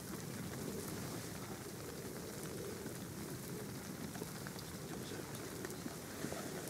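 Steady rain falling, with scattered faint ticks of individual drops.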